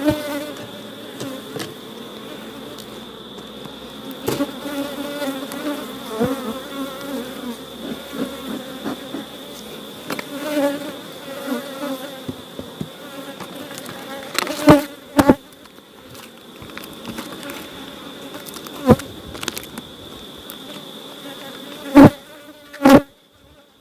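Honeybees buzzing around an open hive, the buzz wavering in pitch as bees fly past close by. A few sharp knocks break in past the middle and again near the end, louder than the buzzing.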